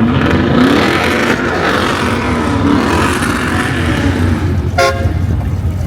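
A car engine running close by, its pitch wavering over the first few seconds, over a steady low drone. A short pitched beep comes near the end.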